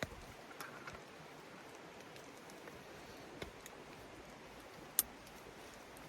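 Light rain on a tent shelter's fabric: a faint, steady hiss with a few scattered sharp ticks, the loudest about five seconds in.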